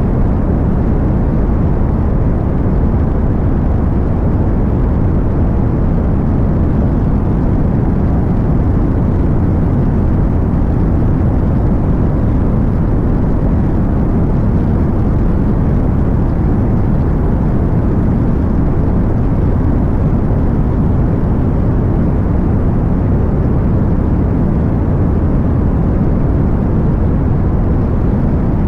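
Cessna 185 Skywagon floatplane's piston engine and propeller running at a steady power, heard as a loud, even drone with no change throughout.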